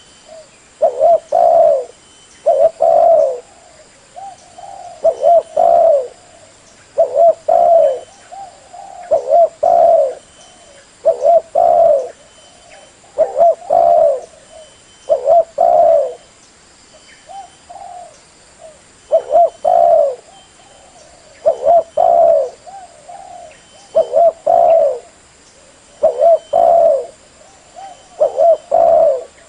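Spotted dove (tekukur) cooing over and over, a lure recording: a low, loud multi-note coo phrase repeats about every two seconds, with short gaps between the phrases.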